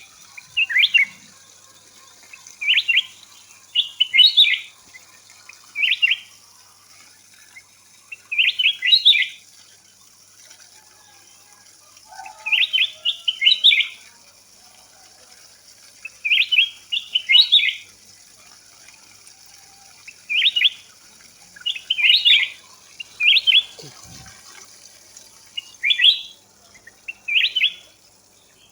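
A bird singing short chirping phrases, repeated every one to two seconds, over a steady high hiss.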